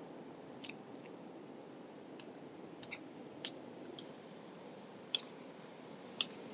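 Several short, sharp clicks at uneven intervals, the loudest near the end, over a steady low rushing background noise.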